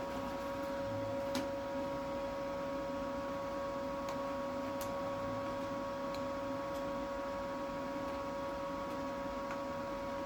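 A steady hum of several tones, with a few faint clicks.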